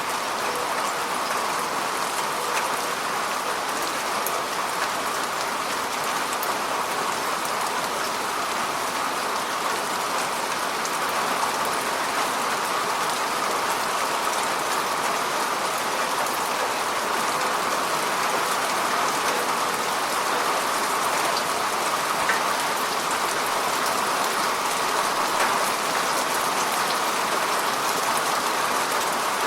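Heavy rain falling steadily in an even hiss, with scattered light drop ticks.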